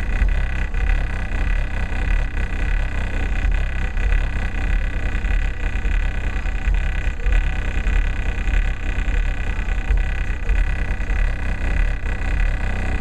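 Car subwoofers playing rap music loudly, the deep bass far louder than the rest and pulsing throughout.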